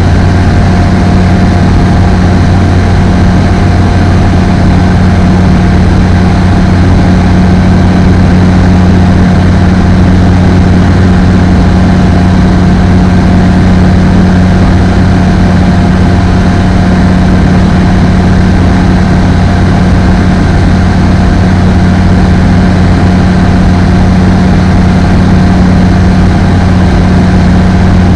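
Apollo Fox ultralight aircraft's piston engine and propeller droning loudly and steadily, holding one constant pitch with no revving.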